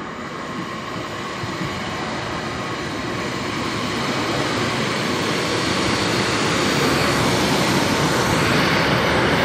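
Class 156 Sprinter diesel multiple unit running into a station platform: diesel engine and wheels on the rails, a steady rumble that grows steadily louder as the train draws near and passes close.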